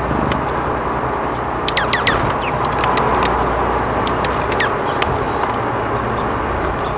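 Small birds chirping: a quick cluster of short falling chirps about two seconds in and another near five seconds, over a steady low background rumble.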